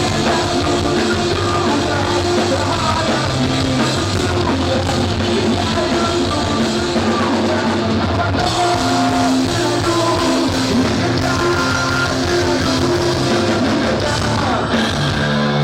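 Pop-punk rock music: band with drum kit and guitars playing, with some singing.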